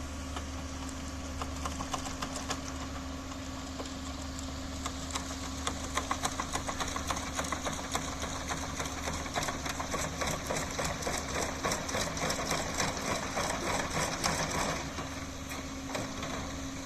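A machine running with a steady hum, joined from about five seconds in by rapid, irregular clicking and clatter that grows busier and fades near the end.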